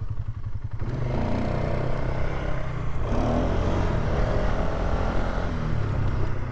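Polaris ATV engine running while riding a dirt trail, revving up about a second in and again about three seconds in.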